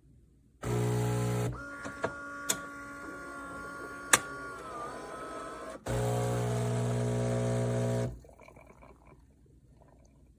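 Philips Series 2300 fully automatic espresso machine running through a cycle. Its pump gives a loud buzz lasting about a second, then there is a quieter hum with a few sharp clicks for about four seconds. The pump then buzzes again for about two seconds and stops abruptly.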